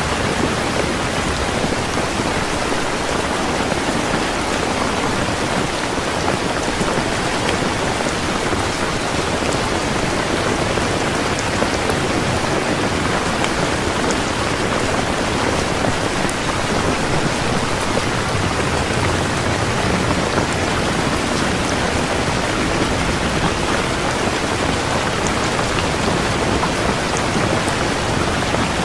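Heavy rain falling steadily, an even, unbroken hiss of drops hitting surfaces.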